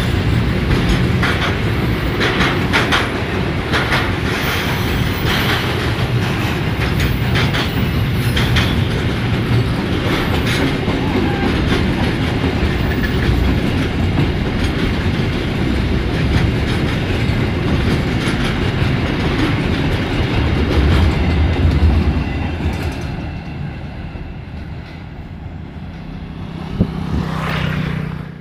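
Container freight train's wagons rolling past close by, with steady wheel rumble and repeated clicks of wheels over rail joints. The noise fades away from about 23 seconds in as the last wagons pass.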